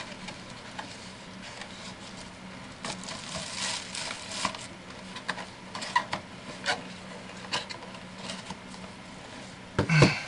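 Handling noise from packaged resin model kits being moved about: scattered rustles and light clicks and taps, with one louder knock near the end.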